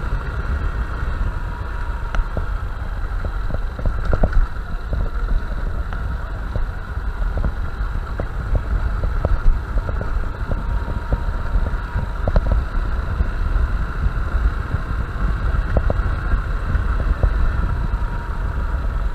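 Honda Bros 160 single-cylinder motorcycle running as it is ridden along a rough back road, with heavy wind buffeting on the microphone and frequent short knocks and rattles from the bumps.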